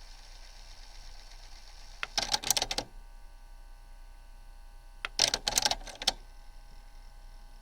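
Two short bursts of rapid mechanical clicking and clattering, about three seconds apart, from the Sony CMT-J100's cassette deck mechanism, over a steady faint hum.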